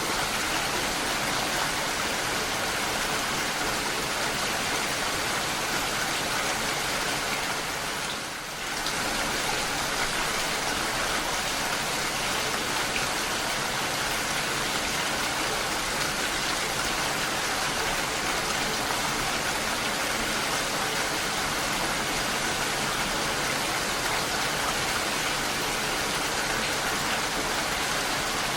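Steady, dense rain falling, with a brief dip in level about eight seconds in.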